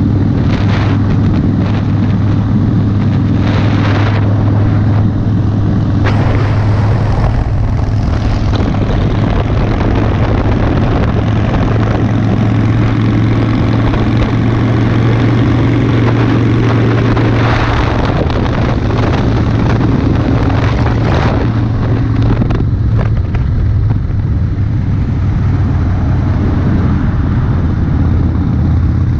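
Harley-Davidson Street Bob's 45-degree V-twin engine running at a steady cruise while riding, with wind buffeting the microphone in several gusts.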